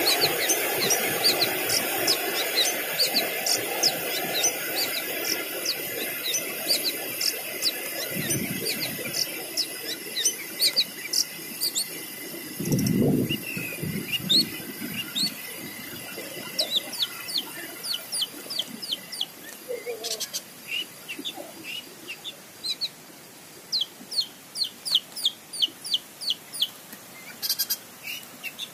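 Small birds chirping repeatedly in quick, short high notes, more densely near the end, over a steady rushing noise that fades away during the first half.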